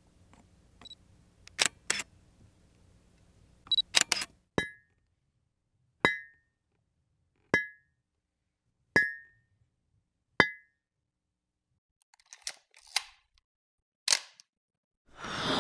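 A series of sharp clicks: five identical ones evenly spaced about a second and a half apart, each with a short high ring. They are set among fainter scattered clicks, and a loud noisy burst starts right at the end.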